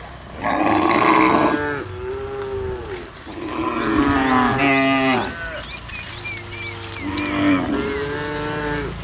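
Cattle mooing: three long, loud moos one after another, with a few short high chirps during the last one.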